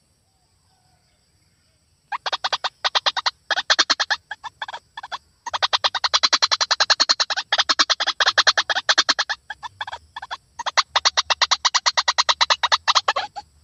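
White-breasted waterhen calling: after about two seconds of silence, rapid runs of harsh repeated notes, roughly ten a second, come in bursts separated by short breaks.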